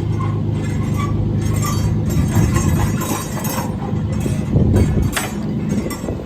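A vehicle engine running steadily, with metallic rattling and clinking over it.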